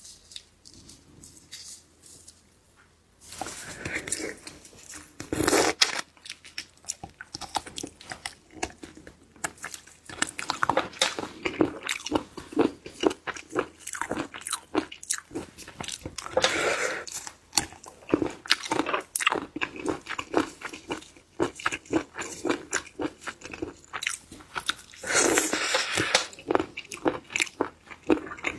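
Close-miked eating: crisp crunching and chewing of sea snail meat, a dense run of crackling clicks with a few louder crunches. It begins about three seconds in.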